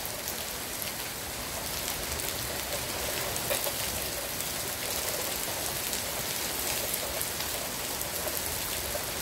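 Heavy rain in a downpour falling onto a paved driveway and parked vehicles: a steady hiss with many sharp ticks of nearby drops.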